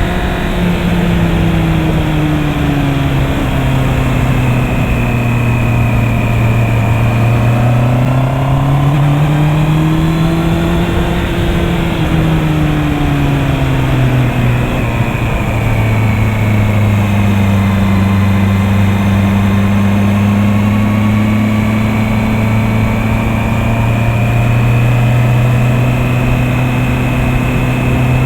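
Honda CB650R's inline-four engine running at moderate road revs, its note rising and easing back off slowly about a third of the way in, then holding steady.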